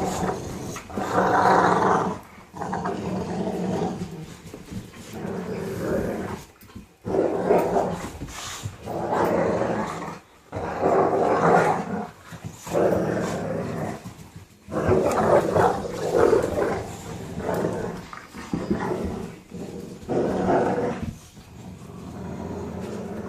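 Several puppies growling at each other in repeated rough bursts while playing tug of war over a rope.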